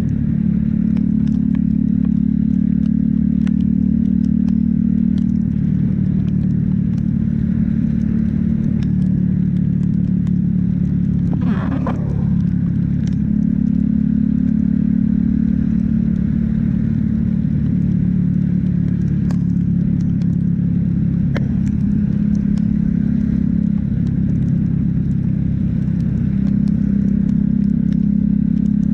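Motorcycle engine running steadily under way, its pitch shifting a little with the throttle, over road and wind noise with scattered small ticks. About twelve seconds in, a brief wavering higher-pitched sound passes over it.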